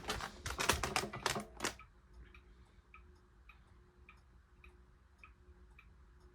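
SMC A52 ceiling fan running, with a clatter of clicks for the first couple of seconds as it is switched up to a faster speed. After that there is a light regular tick about twice a second over a faint hum.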